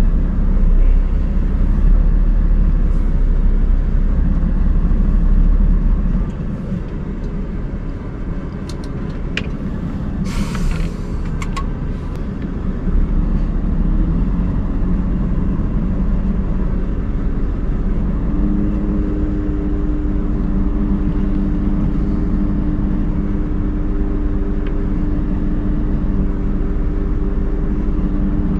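Scania R580 truck's V8 diesel running with a steady low rumble during manoeuvring. A short hiss comes about ten seconds in, and a steady hum joins in over the last third.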